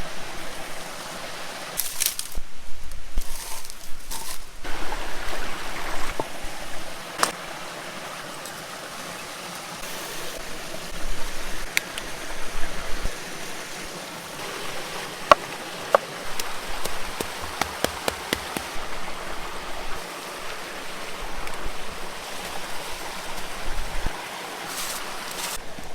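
Steady rush of a flowing stream, with scattered sharp clicks and knocks over it.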